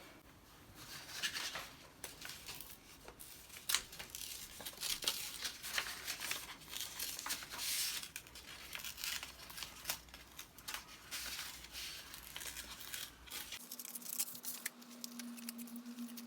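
Paper handled by hand: irregular rustling, crinkling and tearing with light taps, as journal paper is worked on.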